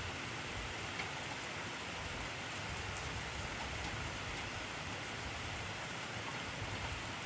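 Heavy rain falling steadily: a dense, even hiss with occasional sharper drop ticks.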